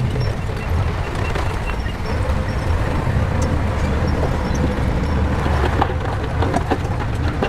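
Shantui crawler bulldozer's diesel engine running steadily under load, with clinks and clanks from its steel tracks that come more often near the end.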